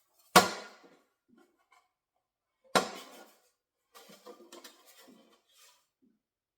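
Two sharp knocks of hard parts being set down, each with a short ringing tail, then a spell of small light clicks and clatter as the parts are handled. These are most likely refrigerator shelves or fittings.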